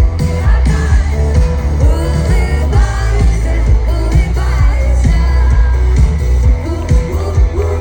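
Live pop band music: singing over loud bass and a steady drum beat.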